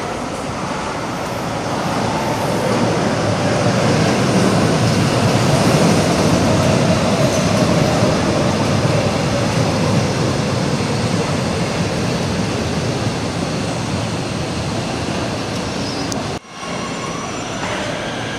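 CPTM electric commuter train running on the tracks: a steady rail rumble of wheels and motors that swells to its loudest a few seconds in and then slowly eases, with a sudden brief drop near the end.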